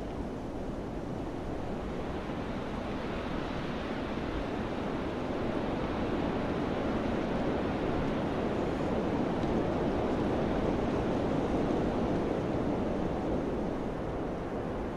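Wind blowing steadily in gusts, swelling gradually to a peak past the middle and easing a little near the end.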